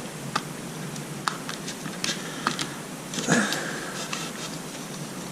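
Scattered light clicks and taps of a small screw, screwdriver and condenser being worked into an engine distributor, over a steady background hiss, with a slightly louder handling noise about three seconds in.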